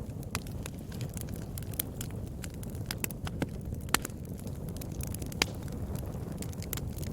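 Fire burning in a fireplace: a steady low rumble of flames with frequent sharp crackles and pops, two louder pops about four and five and a half seconds in.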